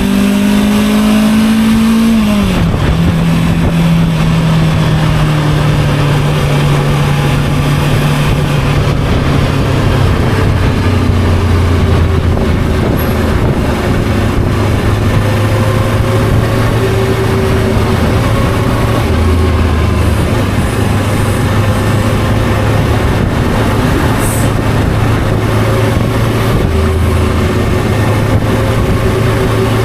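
Motorcycle engine running under way. Its note climbs, then drops sharply about two seconds in, and then holds at a lower, fairly steady pitch with small rises and falls, over a constant rush of noise.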